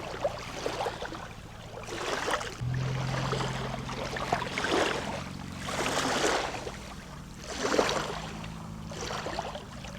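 Small waves lapping against a stony lakeshore, swelling and falling back every second or two, over a low steady hum.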